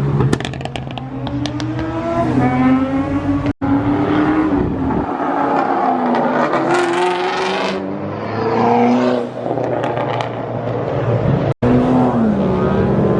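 Cars accelerating hard, engines revving up in pitch and dropping at gear changes, in several separate clips broken by two abrupt cuts about three and a half and eleven and a half seconds in.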